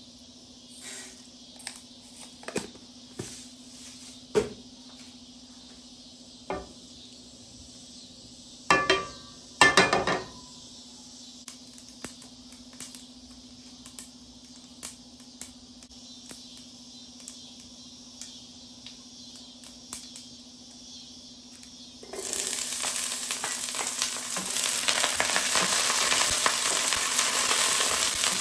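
Scattered clinks and knocks of kitchen utensils, with two louder clatters about a third of the way in, over a faint steady hum. About three-quarters of the way through, food goes into hot oil in a pan and starts sizzling loudly.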